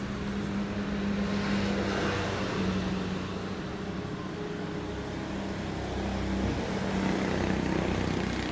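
Hitachi 255 mm aluminium-cutting miter saw's electric motor running steadily, a continuous hum with a faint haze of noise above it.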